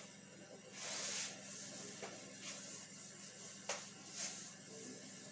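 Whiteboard eraser rubbed across a whiteboard in several short hissing strokes, about a second in, halfway through and again near the end, with a light sharp knock a little after two-thirds through. A faint steady low hum runs underneath.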